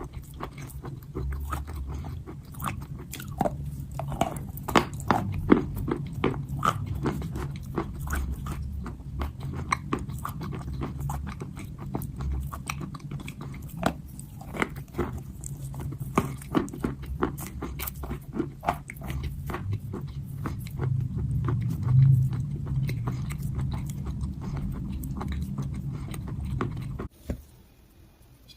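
Crunchy chalk being bitten and chewed close to the microphone: a dense run of sharp crunches over a low steady rumble, which drops away abruptly about a second and a half before the end.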